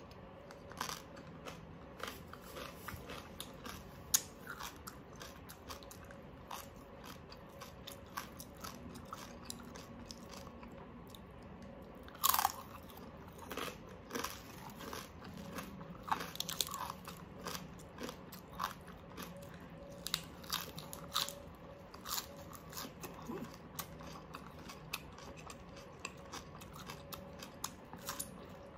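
Close-miked chewing and biting of crispy oven-baked pork, with many short, irregular crunches and a louder crunch about twelve seconds in.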